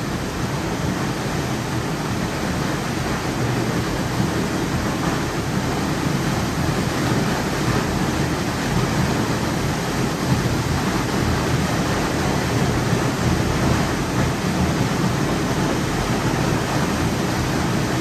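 North Falls, a 136-foot waterfall, pouring steadily: an even, unbroken rush of falling water, a little louder from a few seconds in.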